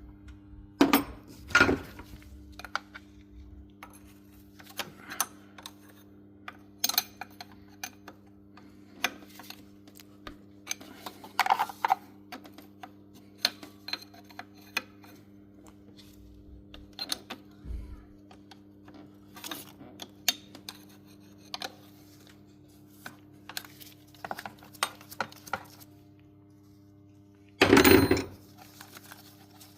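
Irregular metallic clinks and taps, like tools or metal parts being handled, over a steady low hum, with a louder clatter near the end.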